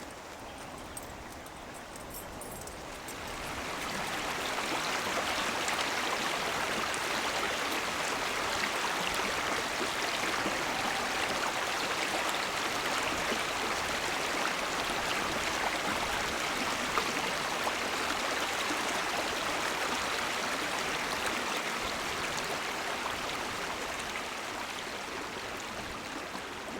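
Creek flowing: a steady rush of running water, which swells up about three seconds in and eases a little near the end.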